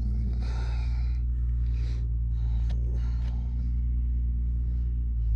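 A steady low machine hum, like a motor running, with a few short clinks and rustles over it in the first few seconds.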